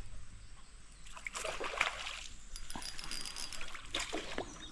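Water splashing and dribbling in short, irregular bursts close to a kayak.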